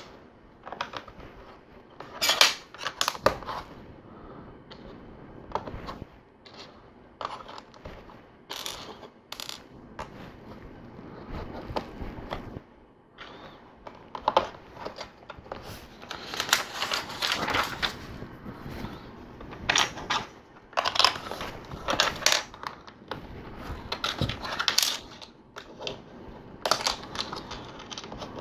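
Plastic LEGO pieces clicking and clattering as they are handled, picked through and snapped together. The clicks come at irregular times, with a few longer stretches of clatter around the middle and later on.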